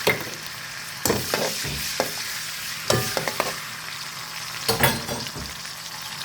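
Ginger-garlic paste sizzling in hot ghee with whole spices, stirred with a spoon that scrapes across the pan in a series of strokes, the loudest about five seconds in.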